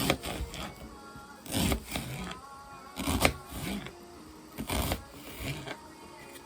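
Irregular clattering knocks of kitchen handling, about five spaced a second or two apart, over soft background music.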